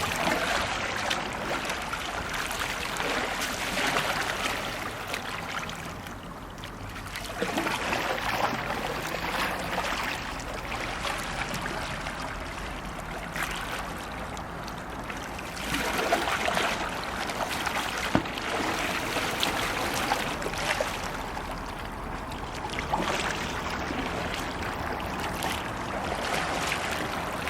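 Kayak paddle blades slapping and pulling through the water in brace strokes, with water splashing and sloshing around the hull in several louder surges.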